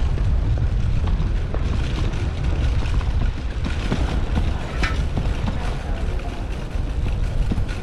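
Wind rumbling steadily over the microphone of a bicycle-mounted action camera while riding, with road noise and scattered small clicks and knocks.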